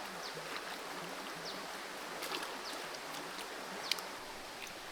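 Small creek flowing steadily, with a few short high chirps and clicks scattered through it.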